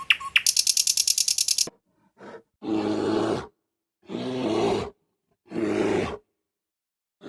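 Bird chirping ends about a second and a half in. Then a large animal gives a series of low calls, each about a second long, with short silent gaps between them.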